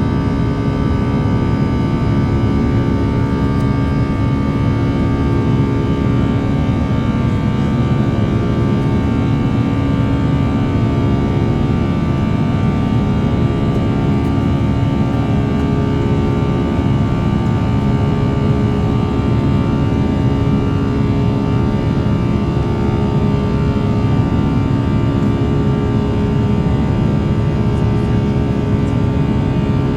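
Airbus A340's four jet engines heard from inside the passenger cabin during the climb: a loud, steady roar with several constant tones running through it.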